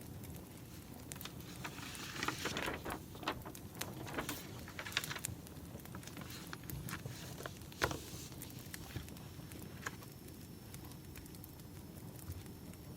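Wood fire crackling: irregular snaps and pops over a low rumble, with a thicker run of crackles about two to five seconds in and one sharp pop near eight seconds.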